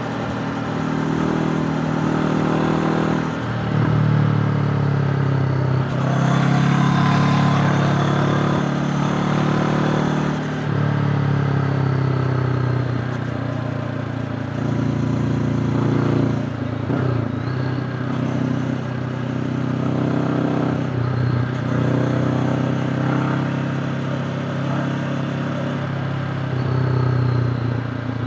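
Honda CB500X motorcycle's parallel-twin engine under way, its revs rising and falling several times as the rider works the throttle through the gears.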